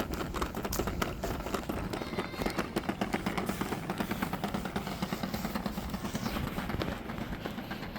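Footsteps on an outdoor path: a quick, continuous run of short scuffing steps.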